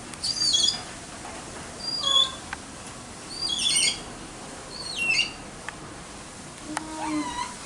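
High-pitched chirping calls from an animal: about five short calls, each falling in pitch, with one lower, shorter call near the end.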